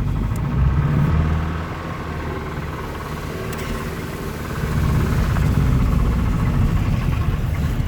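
1954 Riley One Point Five's 1.5-litre four-cylinder engine running. Its sound drops away about two seconds in and picks up again about five seconds in.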